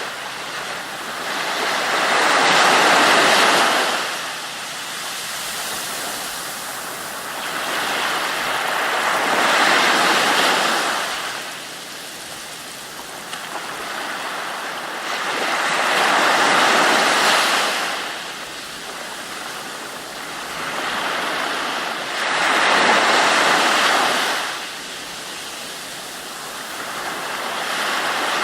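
Ocean waves washing in and breaking, a big surge about every six to seven seconds with a quieter rushing wash between.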